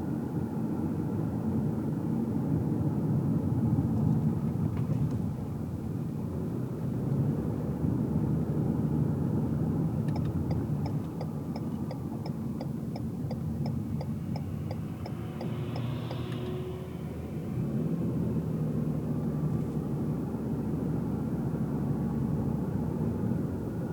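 Car cabin sound of engine and tyre road noise while driving, with the turn-signal indicator ticking evenly, about two and a half ticks a second, for around five seconds in the middle.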